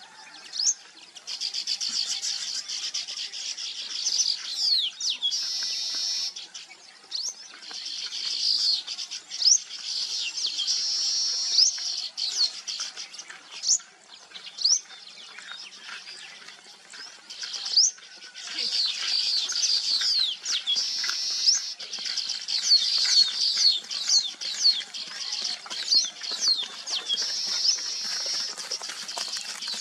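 Many small birds chirping together, a dense chatter of quick high chirps that overlap, rising and falling in bouts with short lulls.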